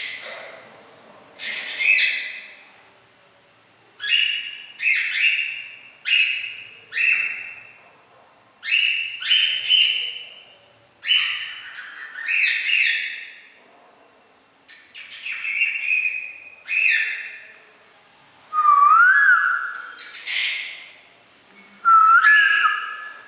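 A pet cockatiel gives loud, repeated shrill calls, one every second or so in bunches with short gaps. Near the end come two whistled phrases that slide up and down in pitch. These are attention-seeking calls, made because she is being ignored.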